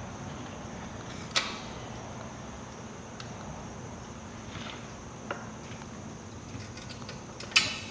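A few sparse clicks and knocks of an aftermarket exhaust being worked onto a dirt bike by hand, the loudest near the end.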